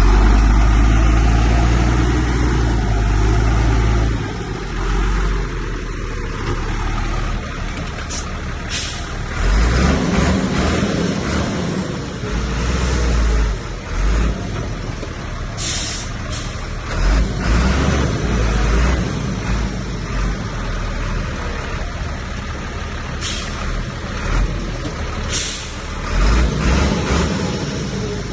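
Heavy diesel earthmoving machinery running and working under load, a deep rumble that is loudest for the first few seconds. Several short, sharp hisses cut in at intervals.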